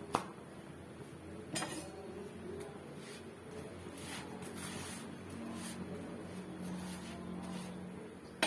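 A kitchen utensil knocking and clinking against a griddle pan while a chapati cooks: a sharp knock just after the start, another about a second and a half later, and one more at the end, over a low steady hum.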